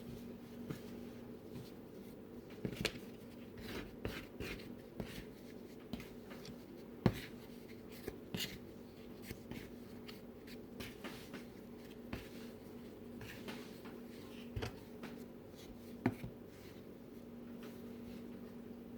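Hands kneading bread dough on a work surface: irregular soft knocks and rubbing, with a sharper knock about seven seconds in and another near sixteen seconds, over a steady low hum.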